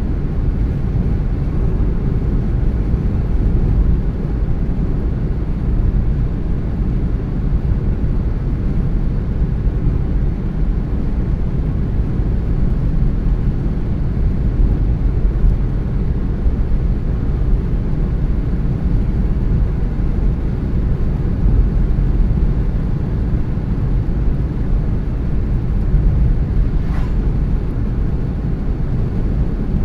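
Steady low rumble of a car driving at an even pace: road and engine noise.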